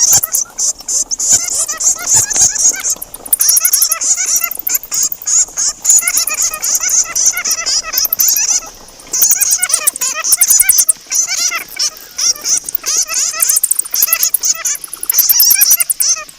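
Fruit bats (kalong) squeaking and chattering: many rapid, overlapping high-pitched calls with fast ticking over them, thinning briefly a little past halfway.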